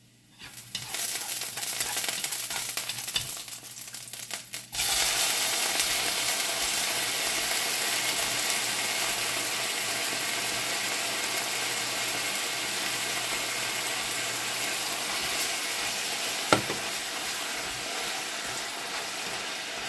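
Marinated chicken breast pieces going into a hot nonstick wok: a lighter, uneven sizzle jumps to a loud, steady sizzle about five seconds in as the meat hits the pan. The frying carries on while chopsticks stir, with one sharp tap late on.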